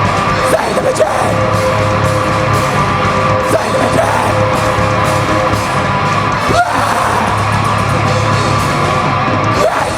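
A heavy metal band playing live at full volume, with distorted guitars, bass and drums, and shouted, yelled vocals over it.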